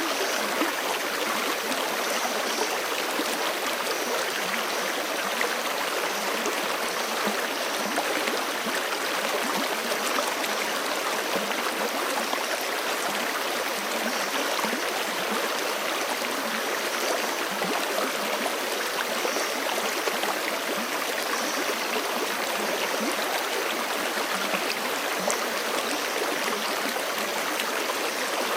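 Forest creek running, a steady, unbroken rush of flowing water.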